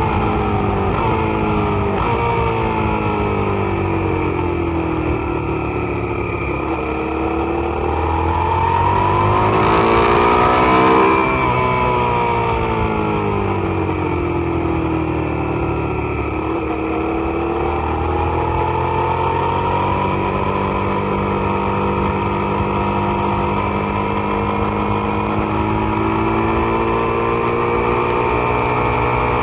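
Suzuki SV650 V-twin engine heard onboard at speed on a racetrack, its revs climbing to a peak about ten seconds in with wind rush loudest there, then dropping away, and rising and falling twice more as the bike accelerates and brakes through the corners.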